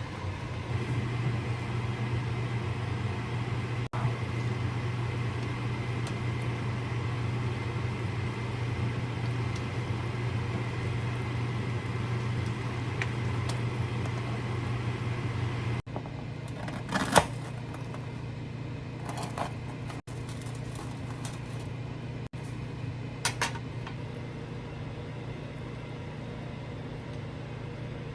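Steady low hum of a kitchen appliance motor, which drops in level after about sixteen seconds. A few sharp clinks of kitchenware follow in the second half.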